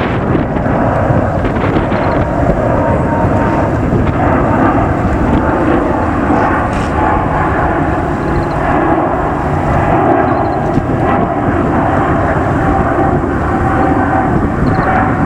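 Jet airliner's engines running loud and close, a steady rush of noise with a faint whine that slowly drops in pitch as the aircraft goes by.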